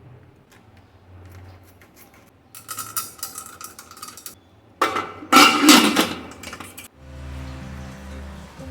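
Dishes and utensils being handled: two bursts of clinking and clattering, about three seconds in and again, louder, about five seconds in. Soft background music starts near the end.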